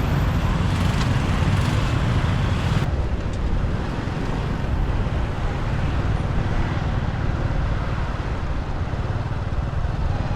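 Steady engine and road noise of a motorbike ride through city traffic. About three seconds in, the high end drops away abruptly and the sound turns duller.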